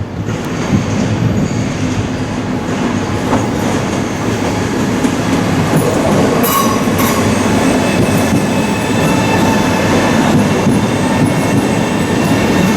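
SBB RABe 503 (ETR 610 New Pendolino) electric tilting train running through the station: a steady loud rumble of wheels on rails that swells at the start. Thin high squealing tones join in from about halfway.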